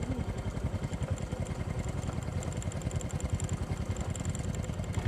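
Honda Supra X motorcycle engine running steadily at low revs.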